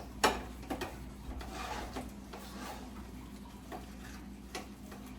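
Light kitchen clatter: a few sharp clicks and knocks of things being handled on the counter and stove, the loudest just after the start, with a soft hiss in between.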